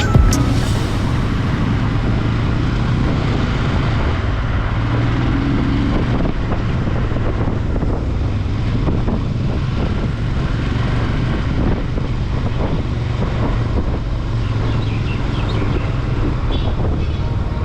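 Royal Enfield Himalayan's 411 cc single-cylinder engine running steadily while riding, with wind buffeting the microphone.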